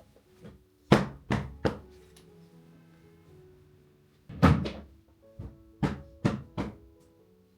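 Loud knocks and thunks of things being handled in a kitchen, over soft background music. Three come in quick succession about a second in, a heavier thunk follows a few seconds later, and four more close together come near the end.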